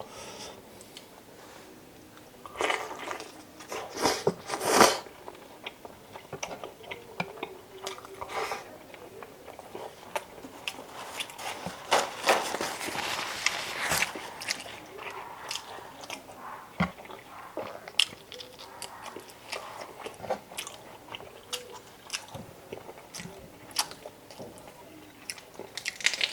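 Close-miked chewing and biting of chicken adobo cooked in Coca-Cola, in irregular bites. The louder stretches come a few seconds in and around the middle.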